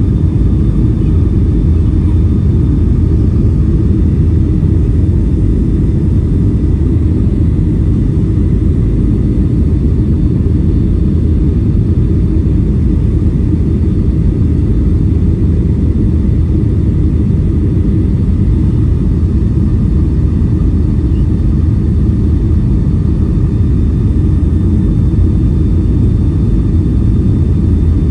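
Cabin noise of a Boeing 757-300 airliner: a steady, loud low roar of engines and rushing air.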